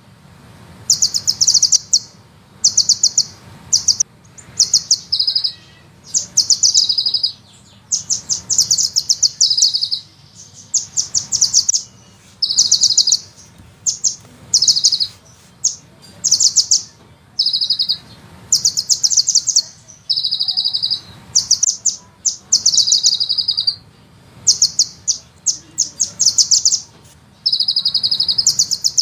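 Sunbird song: bursts of very fast, high-pitched trilled notes repeated about every second, with short gaps between them. Some phrases end in a lower buzzy roll.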